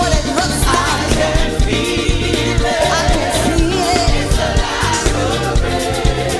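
Gospel praise team performing live: a group of singers holding a melody over a band with a steady bass and drum beat.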